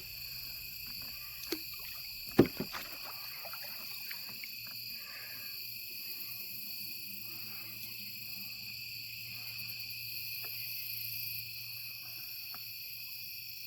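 Night chorus of crickets and other insects: a steady, high-pitched trilling in several layers. A few sharp knocks come in the first few seconds, the loudest about two and a half seconds in.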